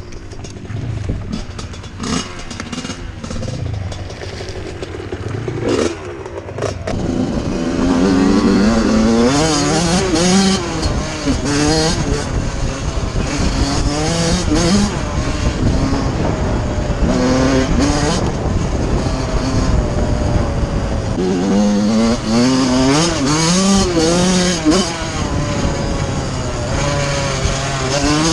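Suzuki RM85 85cc single-cylinder two-stroke motocross engine, running low and steady for the first several seconds, then revving up and down over and over as the bike is ridden, its pitch climbing and dropping with the throttle and gear changes. Wind hiss on the microphone runs underneath.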